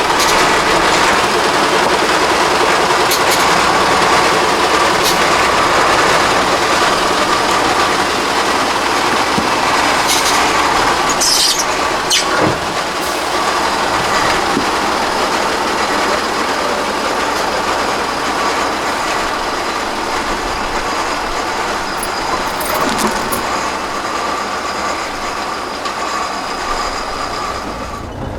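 Heavy off-road trial truck's diesel engine running hard under load, with a steady whine over the engine noise. It eases off gradually over the second half.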